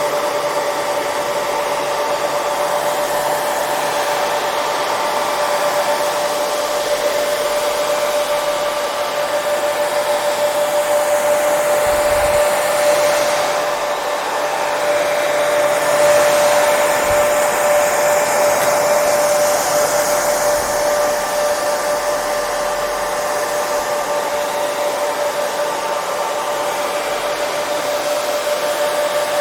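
Hair dryer running continuously: a steady rushing hiss of blown air with a constant motor whine.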